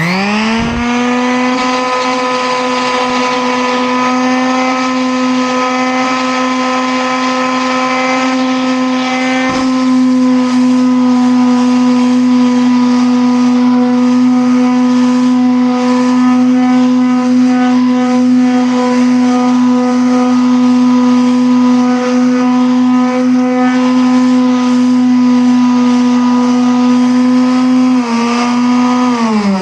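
An electric motor spinning up quickly, running at one steady high hum for nearly half a minute, then winding down and stopping near the end.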